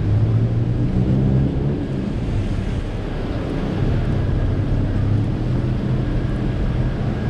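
City street traffic: a low hum of vehicle engines running close by, louder in the first couple of seconds and again a little past the middle.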